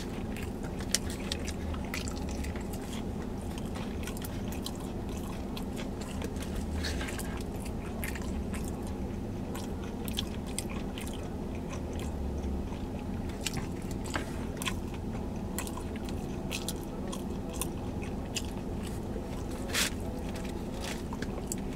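A person chewing and smacking on loaded tater tots, close to the microphone, with many short sharp clicks of mouth and food sounds over a steady low hum.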